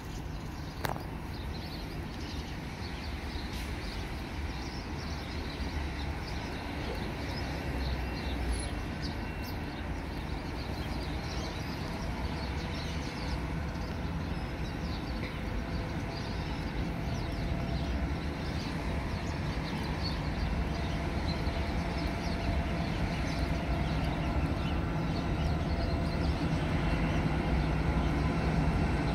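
Train approaching along the track from a distance, its low rumble and hum growing steadily louder. Birds chirp in the background.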